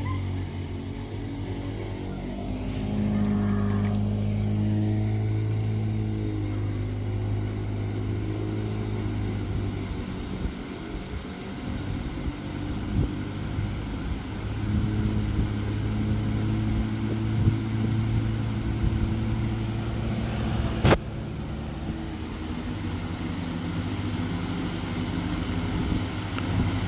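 Lasko B20100 20-inch box fan running with a steady low motor hum that weakens for a few seconds in the middle and then comes back. A single sharp click sounds about 21 seconds in.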